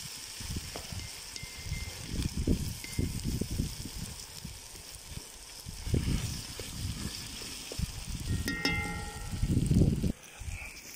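Onions and meat sizzling as they fry in a kazan, with a wooden spatula stirring and knocking against the pot at irregular intervals. A short ringing tone sounds about eight and a half seconds in.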